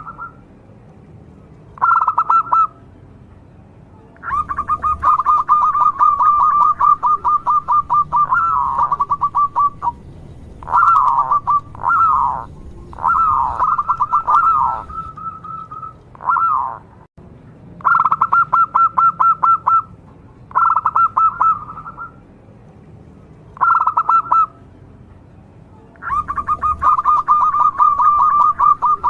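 Zebra dove (perkutut) calling: bursts of rapid purring trills, some under a second and some running several seconds, with a few swooping notes in the middle.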